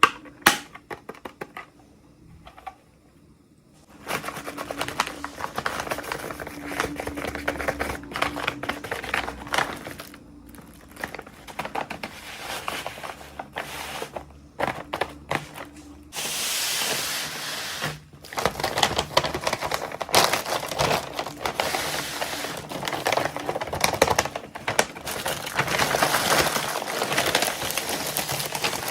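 Toy packaging handled and opened by hand: plastic crinkling and tearing with sharp clicks and taps. The sound pauses briefly about two seconds in and becomes denser and louder from about halfway.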